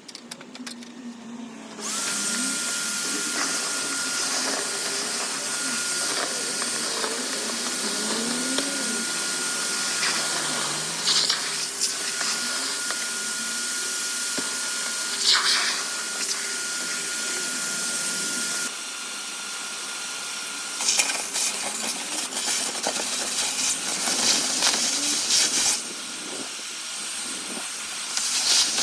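Gutter vacuum running, a steady suction noise with a thin whistle, broken by occasional rattles and knocks as debris is drawn up the pole.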